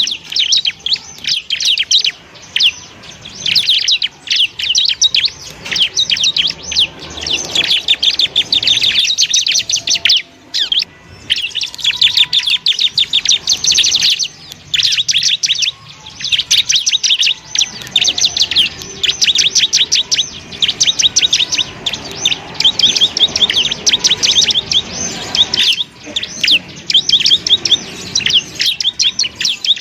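Bar-winged prinia (ciblek) singing: long runs of rapid, high chirps in dense phrases, broken by short pauses.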